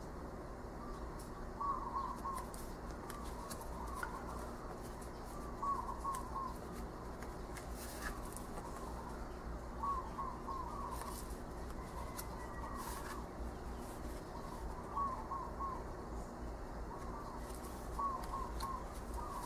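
A bird calling repeatedly: short groups of three or four quick notes, each group about a second or two after the last.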